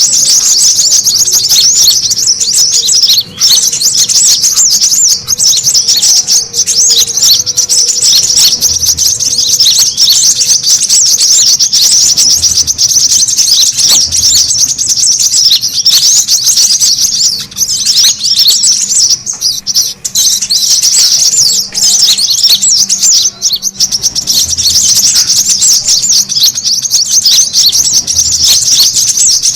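Brown-throated sunbirds (kolibri kelapa) chattering busily: a dense, rapid, high-pitched twittering that hardly pauses, as used in a lure call.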